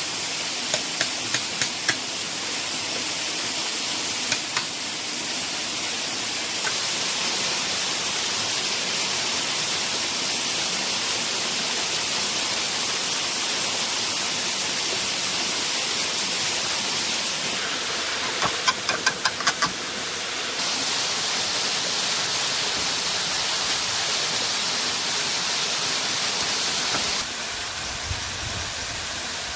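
Steady rushing water of a waterfall. Sharp knocks come in short runs over it: a few in the first two seconds, two at about four seconds, and a quick run of five about two-thirds of the way in. The noise level jumps up or down a few times.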